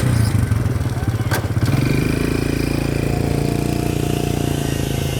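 Small motorcycle engine running steadily at low speed, with a sharp click about a second in.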